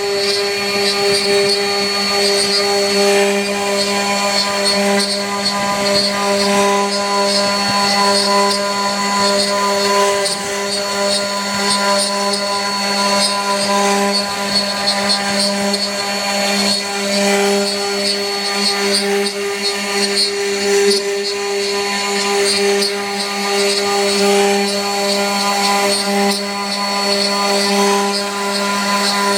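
CNC router spindle running at a steady pitch while its bit carves wood, with a constant whine and a noisy cutting hiss.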